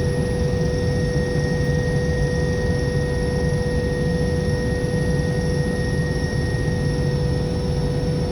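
Steady aircraft engine drone with a constant whine over it, unchanging throughout.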